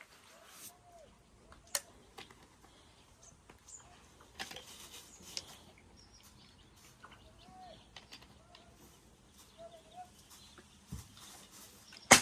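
Leaves rustling and crackling as they are packed into an earthen pot, with scattered light clicks, a few short soft bird calls, and one sharp knock at the very end.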